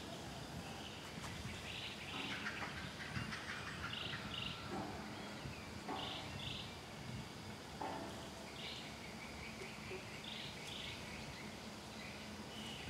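Birds calling: a short double note repeated about every two seconds, with other scattered chirps over a steady outdoor background.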